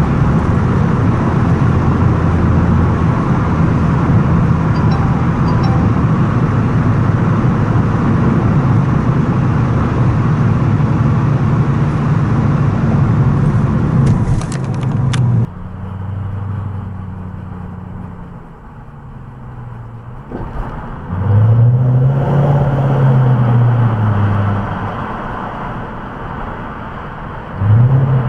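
Toyota Crown Majesta (18 series) V8 through a full straight-through exhaust with a ZEGUS Speed Margay rear muffler, running loud and steady at cruising speed in a tunnel. About halfway the sound abruptly turns duller and quieter, and then the exhaust note rises and falls as the engine is accelerated and eased off, once around the middle of that part and again near the end.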